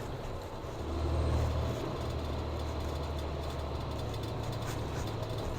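Motor vehicle engine running with a steady low hum that swells about a second in, then holds even.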